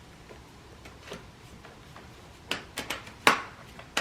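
A few short, sharp hard-plastic clicks and knocks, bunched together about two and a half seconds in, from the parts of a new cordless stick vacuum being handled and fitted together.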